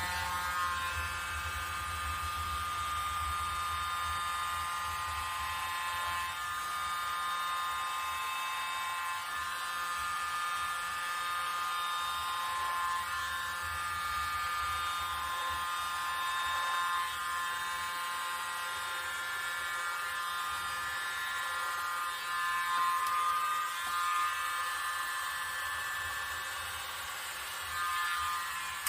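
Hair dryer running steadily with a high whine, blowing the poured acrylic paint across the canvas; it switches off near the end.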